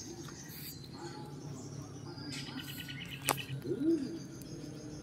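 Songbirds chirping, with a rapid trill about halfway through. A sharp click comes a little after three seconds, and a short low call follows near four seconds.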